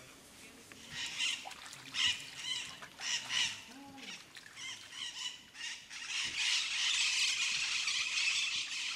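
Birds squawking in short, high, repeated calls. About six seconds in they are joined by a steady, higher hiss.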